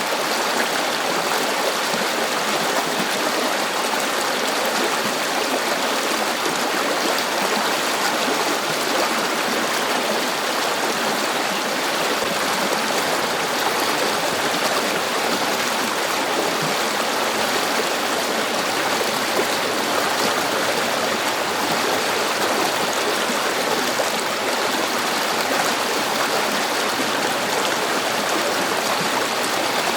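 River water flowing over rocks: a steady, even rushing and babbling with no breaks.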